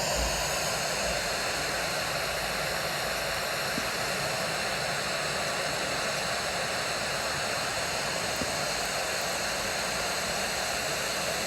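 Steady rushing wind on an outdoor nest-camera microphone: an even hiss that holds at one level throughout, with no distinct calls or knocks.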